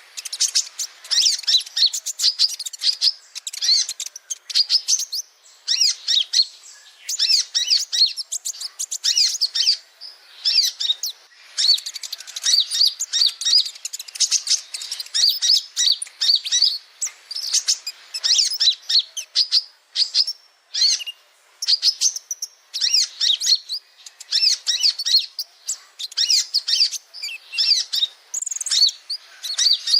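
Male kolibri ninja, a sunbird, singing: rapid runs of high, thin chirps and twitters in phrases a second or two long, broken by brief pauses, over and over.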